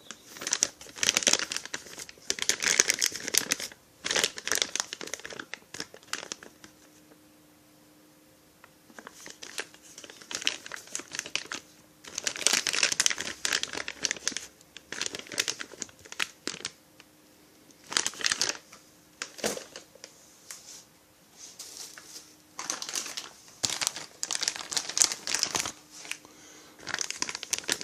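Packaging crinkling and rustling in irregular bursts as chainsaw kit parts are unwrapped and handled, with a quiet pause of a few seconds partway through.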